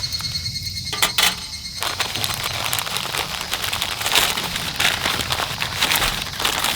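Wood campfire crackling, a dense run of small pops and snaps.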